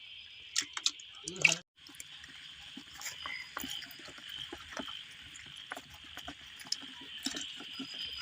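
Wet-weather night ambience: a steady high chorus of frogs and insects calling, with scattered drips and splashes of water. A brief louder noise about a second and a half in is followed by a momentary dropout.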